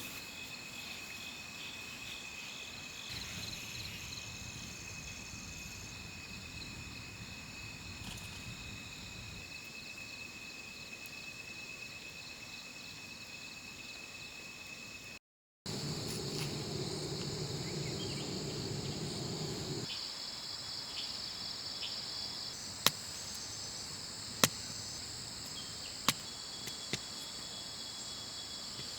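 Steady chorus of insects in forest, shrill unbroken high tones. The sound cuts out briefly about halfway through. A low hum follows for a few seconds, then a handful of sharp clicks near the end.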